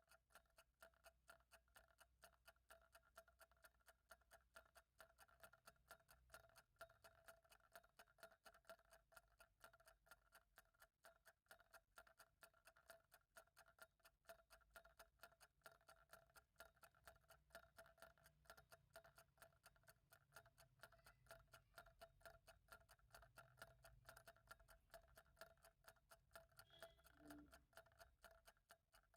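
Clock ticking steadily and evenly, faint.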